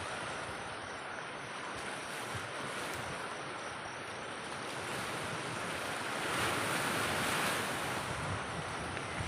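Steady rushing of surf and wind, swelling louder about six seconds in and then settling back.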